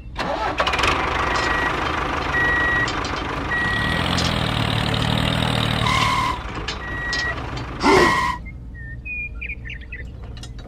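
Vehicle engine running while a reversing alarm gives several short beeps. About eight seconds in comes a short loud hiss, then the engine noise drops away and a few chirps are heard.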